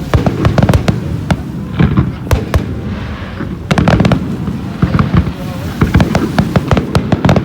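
Fireworks display: a rapid, irregular run of bangs and crackles, coming in bursts about half a second, two seconds, four seconds and six to seven seconds in, over a low rumble.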